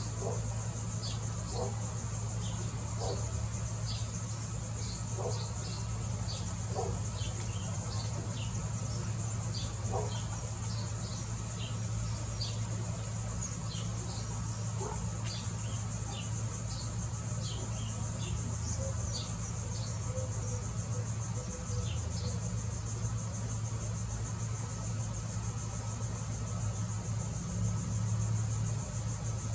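Steady high-pitched drone of a summer insect chorus, over a steady low hum, with many short chirps scattered throughout.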